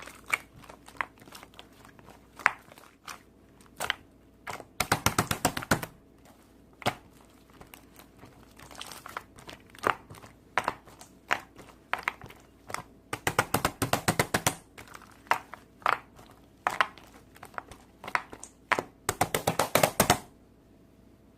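Crunchy slime being squeezed and pressed by hand: scattered sharp clicks and pops, with three dense runs of rapid crackling about five, thirteen and nineteen seconds in. It stops about a second before the end.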